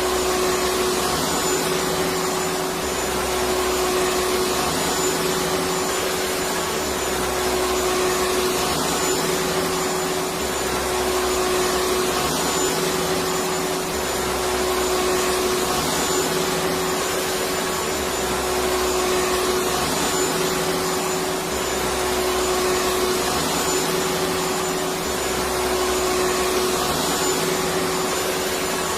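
Electric vacuum cleaner running steadily, a continuous whooshing motor noise with a constant hum, its low end swelling and easing about every three and a half seconds.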